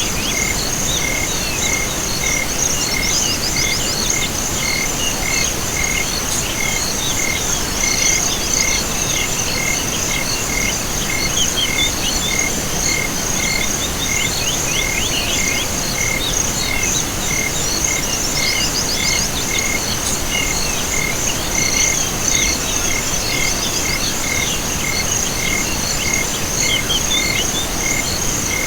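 Night chorus of crickets and frogs: a continuous high insect trill, a chirp repeating a little under twice a second, and bursts of rapid calls every five or six seconds over a steady hiss.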